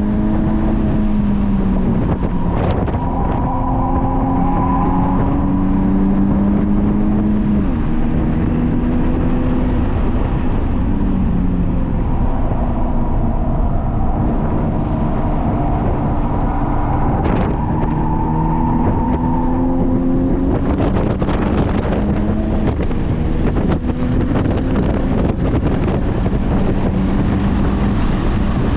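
Honda Civic Type R FK8's turbocharged four-cylinder engine at track speed. Its pitch climbs under acceleration, drops sharply at gear changes and falls away when the driver lifts, repeating through the stretch. Steady wind and road noise run underneath.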